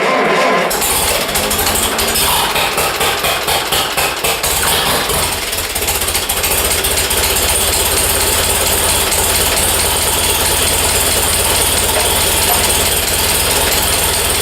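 1948 Co-op tractor engine, fitted with a new muffler, firing up about a second in. It runs unevenly for a few seconds, then settles into a steady idle.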